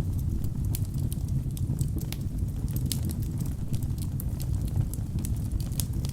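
Wood fire burning in a fireplace: a steady low rumble of flames with many sharp crackles and pops from the logs, several a second.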